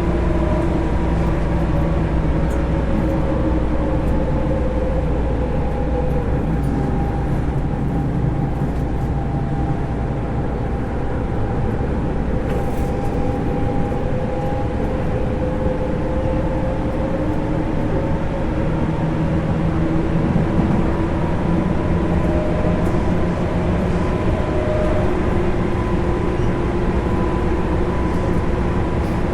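Running sound of a JR East 205-series EMU motor car with MT61 externally-fanned traction motors, heard from inside the car. It is a steady rumble of wheels and running gear under several motor and gear whine tones that drift slightly in pitch.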